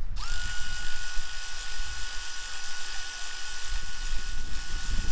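Handheld power tool motor running: its whine rises briefly as it spins up, holds steady with a high hiss for about five seconds, then cuts off.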